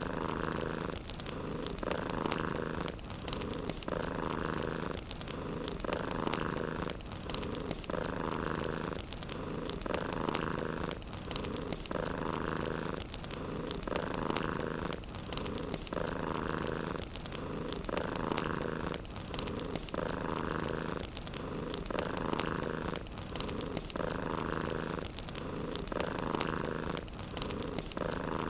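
Domestic cat purring steadily in even cycles, about one a second, with the crackle of a wood fire running through it.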